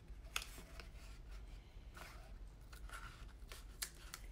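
Card stock being handled and folded: faint paper rustling with a few short, sharp clicks and ticks, the loudest about half a second in.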